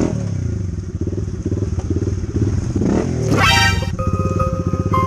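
Dirt bike engine running at low speed, its exhaust pulsing steadily, with a short rising high-pitched sound about three and a half seconds in. Background music comes in near the end.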